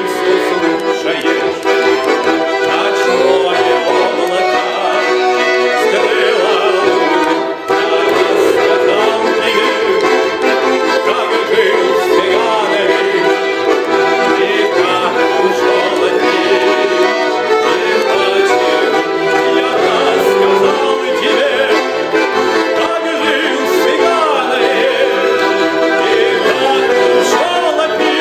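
Accordion music: a button accordion plays a melody over sustained chords at a steady loud level.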